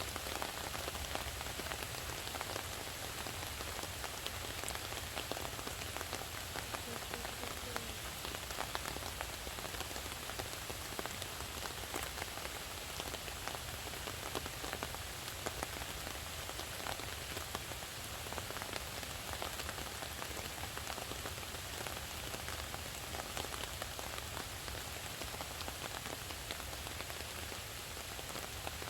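Steady rain falling, a continuous hiss dotted with many separate drop ticks.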